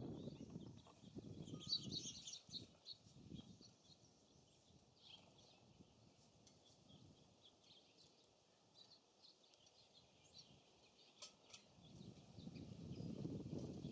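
Faint, high chirps from small songbirds, clustered about two seconds in and scattered after that, with wind gusting on the microphone at the start and again near the end.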